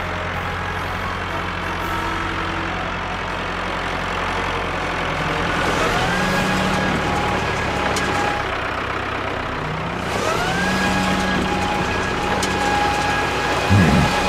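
Vehicle engine sound effect running steadily. Its pitch rises and then holds about six seconds in and again about ten seconds in, like revving up to speed. A short thump comes near the end.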